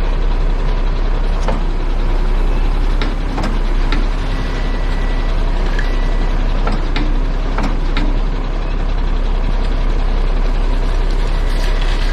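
Heavy truck engine running steadily with a deep rumble, with a few sharp knocks and a couple of short high beeps.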